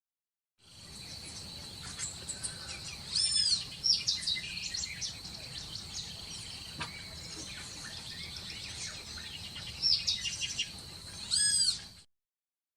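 Several wild birds singing and chirping, with short quick notes and a few louder swooping calls, over a steady high-pitched hum.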